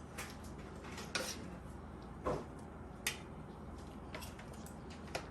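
Cutlery clinking lightly on plates during a meal: about six short, separate clinks spaced irregularly over a few seconds.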